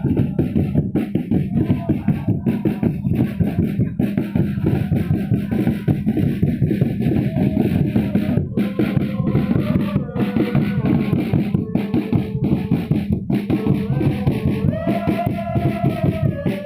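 A crowd of football supporters chanting together over fast, steady drumbeats, with a sung tune coming through more clearly in the second half.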